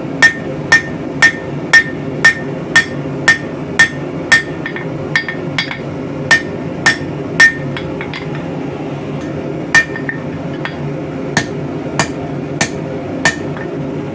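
Hammer blows on hot rebar at the anvil, tapering it, each strike with a bright metallic ring. They come at about two a second for the first four seconds, then turn slower and irregular. A steady low hum runs underneath.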